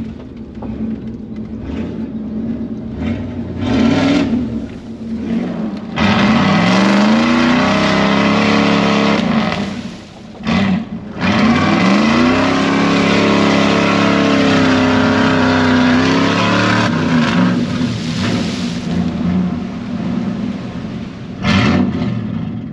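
Dodge mud truck's engine revving hard in two-wheel drive, its tires spinning in deep, soft mud. The revs rise about six seconds in and hold high, dip briefly near ten seconds, climb and hold again, then drop back after about sixteen seconds.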